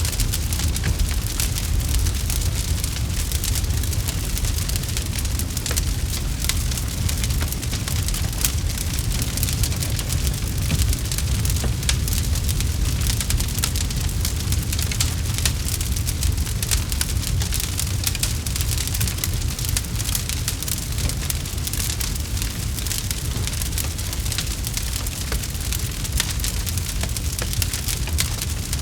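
Campfire crackling: a dense, steady scatter of small sharp pops and snaps over a continuous low rumble.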